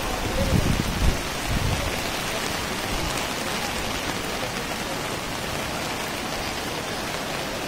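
Steady hiss of heavy rain together with the rush of a river in flood, with a few low rumbles in the first two seconds.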